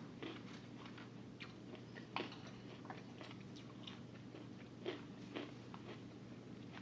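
Soft, close-up chewing and mouth sounds of someone eating sushi: faint, irregular clicks and smacks, the clearest about two seconds in and again near five seconds. A faint, steady low hum runs underneath.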